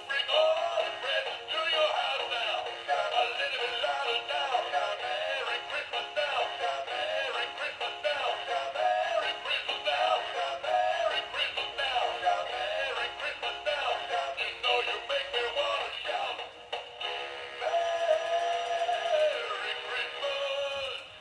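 A dog howling along to music, its voice bending up and down, ending on a long held note that falls away near the end.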